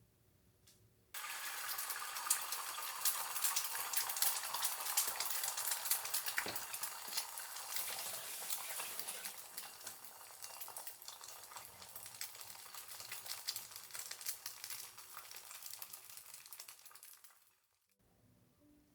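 Food sizzling and crackling in hot oil in a pan. It starts suddenly about a second in, is loudest over the next several seconds, eases off, and stops abruptly near the end.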